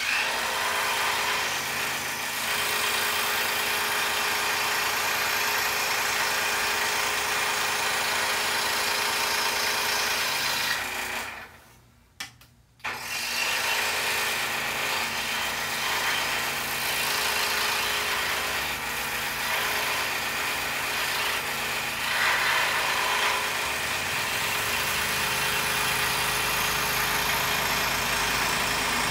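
Scroll saw running, its blade cutting through a poplar board, a steady mechanical sound. It stops about eleven seconds in and starts up again a second or two later.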